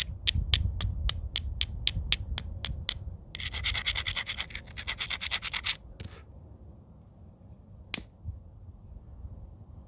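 Flintknapping with a homemade bopper: quick light taps on the stone's edge, about four a second, then a few seconds of rapid scraping along the edge, then two single sharp clicks on stone.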